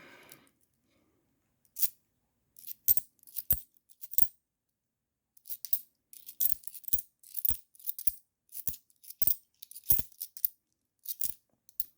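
50p coins clinking as they are handled and set down one by one while being sorted. The clinks are sharp and separate: a few at first, then about two a second from about halfway through.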